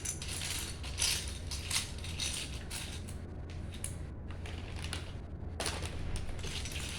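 Loose plastic Lego bricks clicking and rattling as hands rummage through a pile of pieces searching for a part, over a steady low hum.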